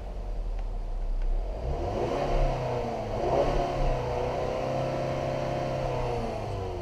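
2018 Ford Edge's 2.0L EcoBoost turbocharged four-cylinder engine revved up from idle about two seconds in, held at raised speed for a few seconds, then allowed to drop back toward idle near the end.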